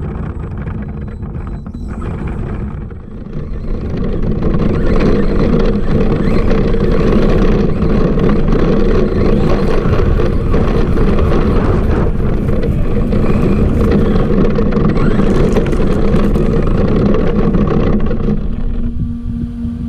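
Radio-controlled monster truck running at speed: a dense, rough rush of motor, drivetrain and tyre noise that grows louder about four seconds in and eases off near the end.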